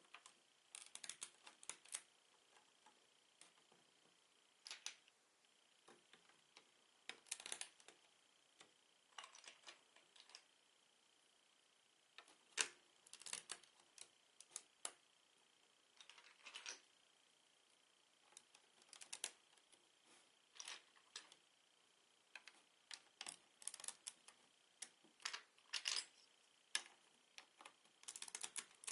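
Plastic Lego bricks clicking and tapping as they are handled and pressed together, in irregular clusters of sharp little clicks with short pauses between.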